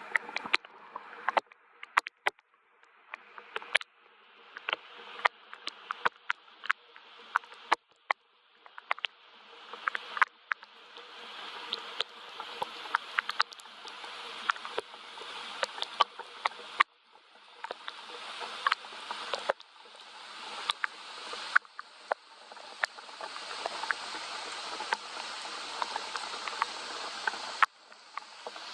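Rain falling, with distinct drops tapping sharply over a steady hiss that builds up, then drops back suddenly a few times before building again.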